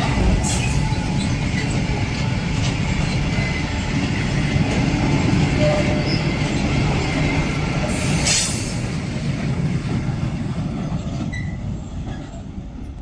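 Electric multiple-unit passenger train running through the station: a loud rumble of wheels on rail that fades away over the last couple of seconds. About eight seconds in there is a brief high-pitched burst of noise.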